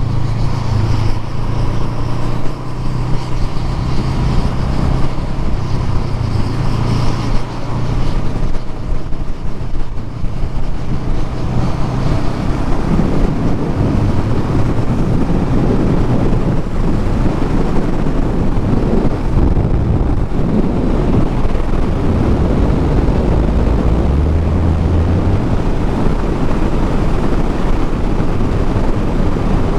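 Motorcycle engine and exhaust running steadily while riding, under heavy wind rush on the microphone that grows rougher about twelve seconds in.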